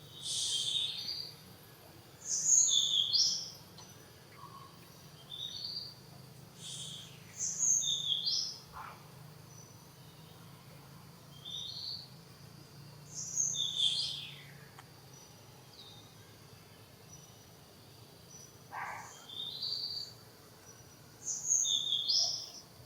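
A songbird singing, repeating a short phrase of chirps every two to three seconds, over a steady low hum of background noise.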